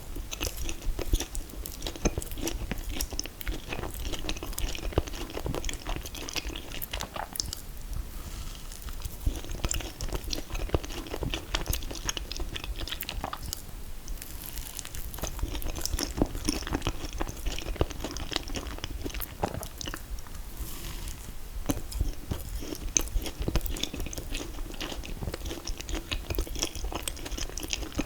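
Close-up eating sounds: biting and chewing mouthfuls of mint chocolate chip ice cream cake, a steady run of small wet crackles and crunches.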